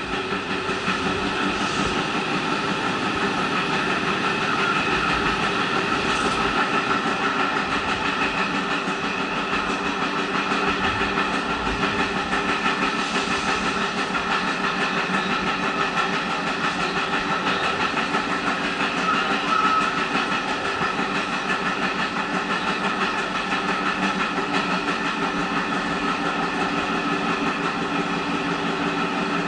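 Running noise inside a diesel local train's passenger car underway: a steady drone of engine and wheels on the rails, holding even throughout.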